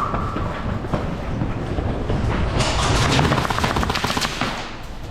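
Airsoft guns firing on full auto: a fast rattle of shots running from about two and a half seconds in to just past four seconds.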